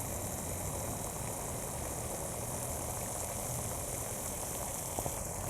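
Steady outdoor background noise, a low rumble under a high hiss, with a couple of faint clicks about five seconds in.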